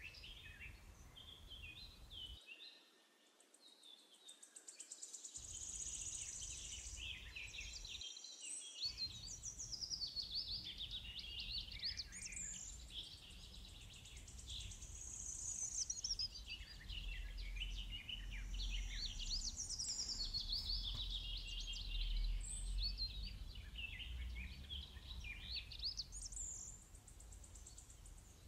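Birds singing: many quick chirps, whistles and trills overlapping one another, with a faint low hum underneath.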